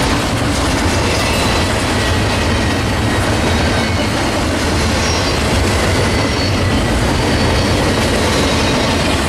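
Intermodal stack train's cars rolling past close by: a loud, steady rumble of wheels on rail, with faint wheel squeal.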